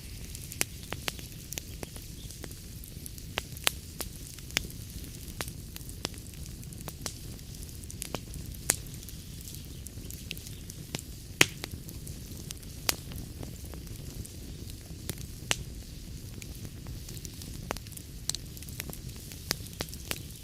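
Log fire in a fireplace crackling: irregular sharp pops and snaps over a steady low rumble and hiss, with one louder pop about halfway through.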